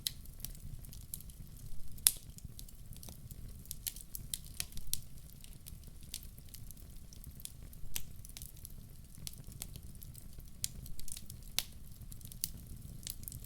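Wood fire in a fireplace crackling, with irregular sharp pops over a low, steady rumble; one pop about two seconds in stands out.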